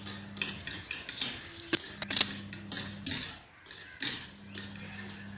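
Spoon stirring and scraping around a small bowl, mixing budgie hand-feeding formula of Cerelac and warm water, in quick repeated strokes about two to three a second with a short pause past the middle.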